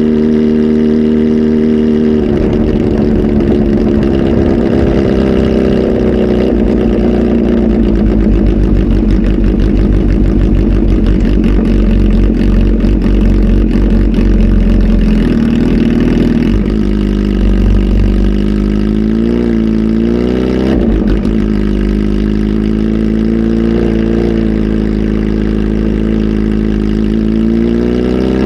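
Kawasaki Z H2 SE's supercharged inline-four, flash-tuned with a full exhaust, running steadily, then revving up about two seconds in and staying up until about halfway. It then drops back and is blipped a few times before running steadily again near the end.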